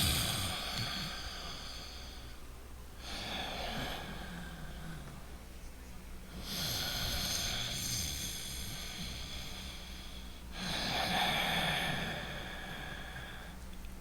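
A man breathing deliberately loud in and out through the nose as a relaxation breathing exercise: four long, noisy breaths of uneven length with short pauses between them, and a quieter pause near the end.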